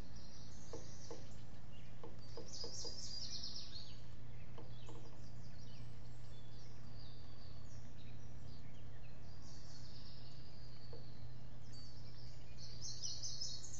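Birds chirping: quick runs of high notes about two seconds in and again near the end, over a steady low hum and background hiss, with a few faint taps early on.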